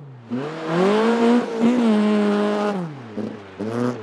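Toyota Starlet rally car's four-cylinder engine revving up hard and held at high revs for about two seconds, with a brief dip partway. The revs then drop away sharply as the throttle is lifted, followed by two short throttle blips near the end.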